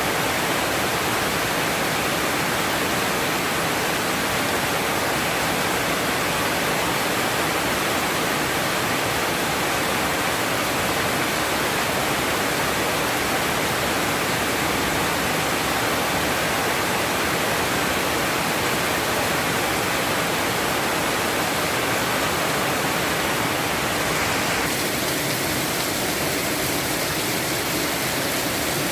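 Heavy rain pouring down in a steady, even hiss, its sound shifting slightly a few seconds before the end.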